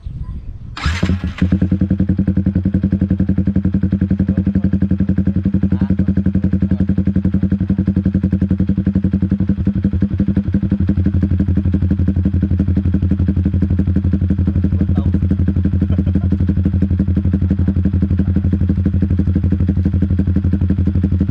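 Yamaha Sniper 150's single-cylinder four-stroke engine starting about a second in, then idling steadily through a ProLiner open exhaust with the DB killer removed.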